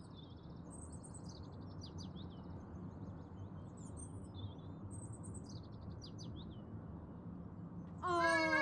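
Small birds chirping and trilling over a steady low outdoor hum. Near the end a woman's loud, drawn-out cry starts, falling in pitch.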